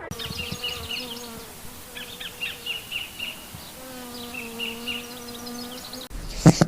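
A buzzing insect hum that wavers slightly and breaks off briefly midway, with small birds chirping repeatedly above it. Near the end it cuts off and a short loud sound follows.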